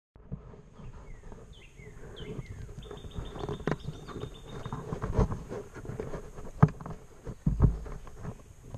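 Woodland birds chirping, with a short high trill about a third of the way in, over rustling and scattered close knocks; the two loudest knocks come in the second half.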